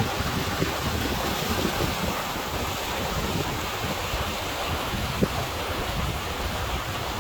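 Steady rushing of wind and water outdoors, with a low rumble and an odd faint tick.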